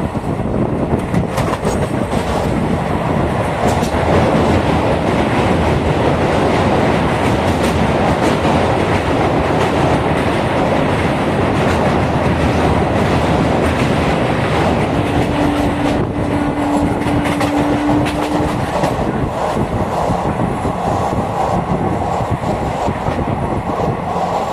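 Indian Railways passenger train, the Jhelum Express, running along the track with a steady loud rumble. About two-thirds of the way through, a single steady tone sounds for about three and a half seconds.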